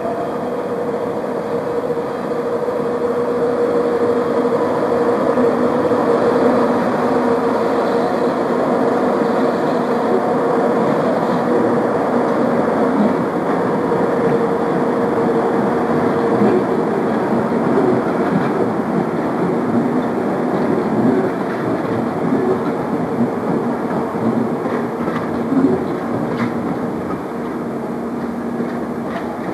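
Electric-locomotive-hauled passenger train rolling slowly past, a steady rumble with a continuous hum. A few short clacks of wheels over rail joints come near the end.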